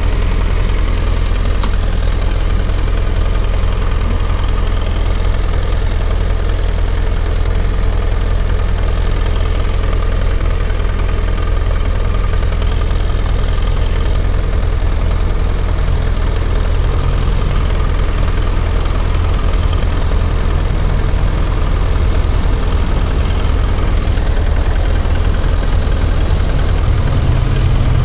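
BMW F800GS parallel-twin motorcycle engine running steadily, with a slight change in its low note about two-thirds of the way through and again near the end.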